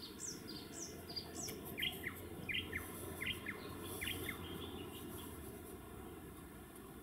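Small birds calling: a quick run of high, downward-sliding chirps, about three a second, for the first second and a half, then a scatter of short, sharp notes lower down over the next few seconds.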